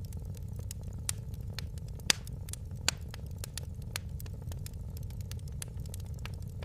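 Wood fire crackling in a fireplace: irregular sharp pops and snaps over a steady low rumble. The loudest pop comes about two seconds in.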